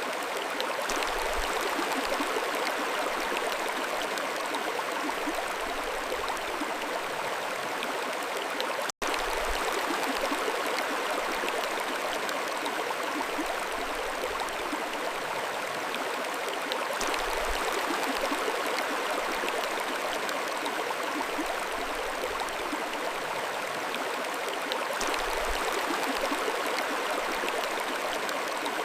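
Mountain stream flowing steadily, an even rush of water with a fine trickling texture. The sound cuts out for an instant about nine seconds in, then carries on unchanged.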